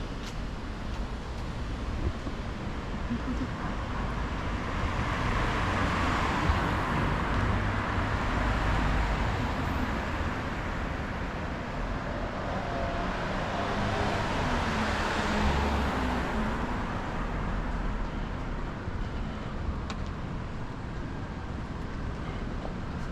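Road traffic: two vehicles pass one after the other, their tyre noise swelling and fading, over a steady low rumble.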